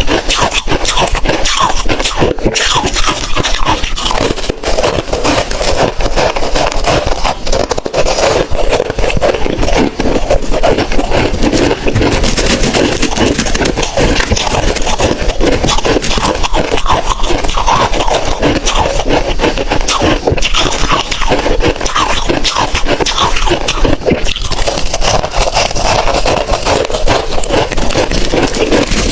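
Hard ice being bitten and chewed close to the microphone: a continuous run of loud, crackly crunching.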